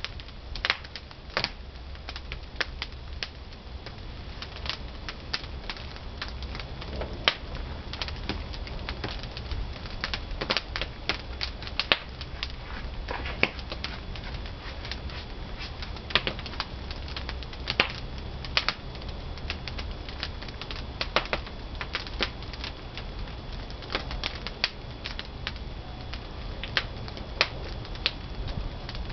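Pine firewood burning in a traditional wood-fired kiln, crackling with many irregular sharp pops over a low steady rumble of the fire.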